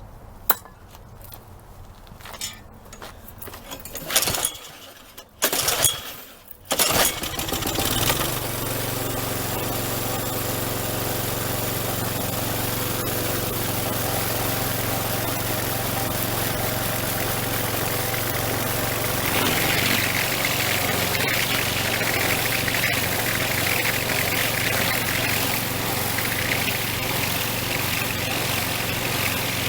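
Troy-Bilt string trimmer's small gas engine being pull-started. A few loud cord pulls come in the first seven seconds; then the engine catches about eight seconds in and runs steadily, turning brighter and rougher about twenty seconds in. It runs on its freshly cleaned carburetor, which is working.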